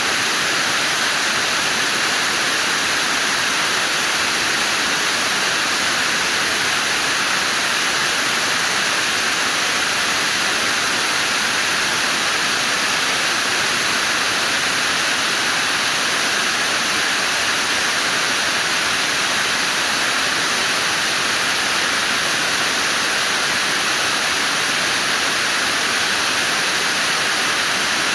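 Steady, unbroken rush of water, an even hiss with no changes.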